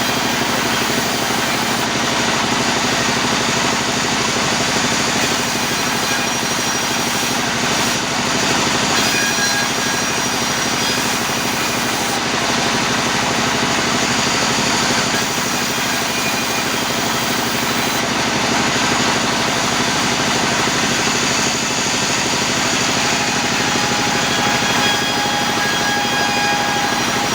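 Sawmill machinery running steadily, an even, dense mechanical noise with faint whining tones over it.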